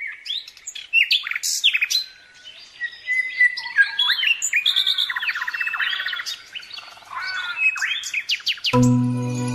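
Birds chirping and singing: a dense run of quick whistles, trills and rapid chip notes. Music with steady sustained tones comes in near the end.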